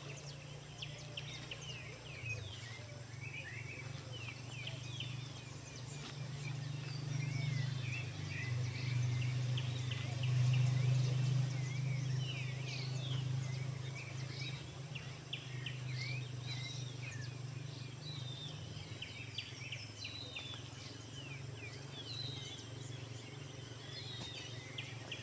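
Outdoor birdsong: many short, quick bird chirps and calls. Under them runs a steady low hum that swells to its loudest around the middle and then eases, along with a thin, steady high tone.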